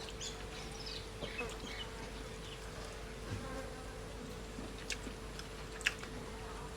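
Insect buzzing steadily, with a couple of sharp clicks about five and six seconds in.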